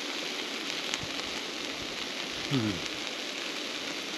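Tuna in adobo sizzling in a pan on a camp cooker, a steady hiss with light crackles. About two and a half seconds in comes a short, falling "mmm" of enjoyment from a man as he eats.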